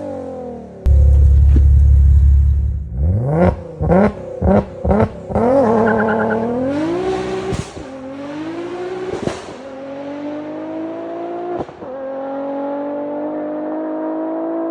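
Engine of an Audi RS4 B7 with a swapped-in 1150 hp engine: the revs fall, a steady low drone holds for about two seconds, then several quick rev blips, and then the car accelerates hard through the gears, the pitch climbing in each gear with sharp cracks at the shifts.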